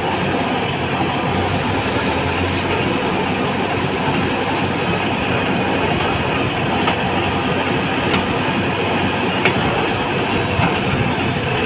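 Heavy diesel engine of a working backhoe loader running steadily, with a few sharp clicks, one about nine and a half seconds in.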